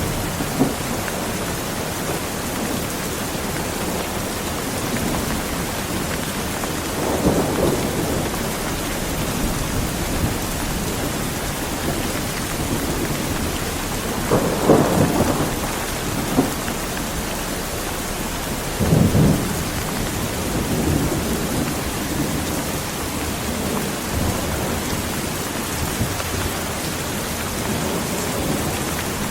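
Heavy rain falling steadily, with thunder rumbling several times through it: rolls about a quarter, half and two-thirds of the way in, and a fainter one after.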